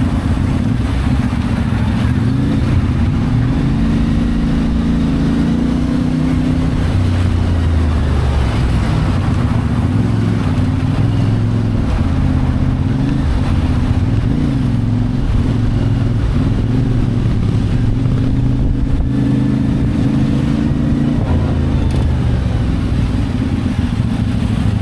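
CF Moto 450MT parallel-twin engine running under way, its note rising and falling with throttle and gear changes.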